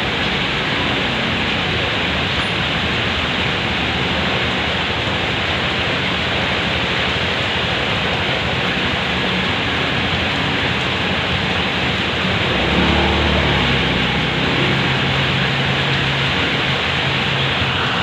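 Heavy rain pouring down steadily. About twelve seconds in, the low hum of a vehicle engine joins it.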